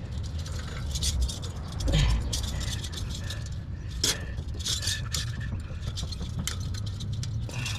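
Irregular metallic scraping, clinking and rattling of an exhaust pipe and its pipe connector being handled and adjusted, over a low steady rumble.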